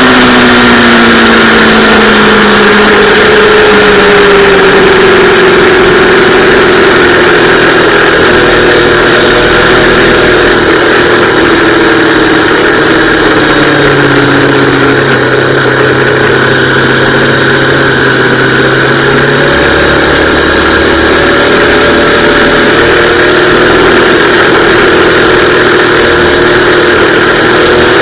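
Yamaha R3's parallel-twin engine running hard on track, the engine note falling over the first few seconds and then rising and falling with the throttle.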